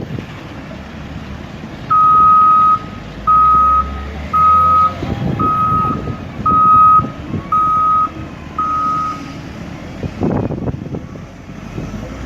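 Reversing alarm on a Caterpillar earthmoving machine beeping seven times, about one steady beep a second, over its diesel engine running.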